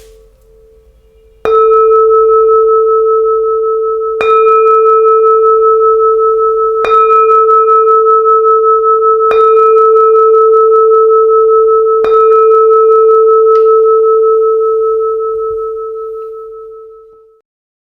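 A 20 cm Huế-style bowl bell of red copper and tin, struck five times at an even pace about two and a half seconds apart. Each strike adds to one long, pulsing ring that dies away slowly after the last stroke.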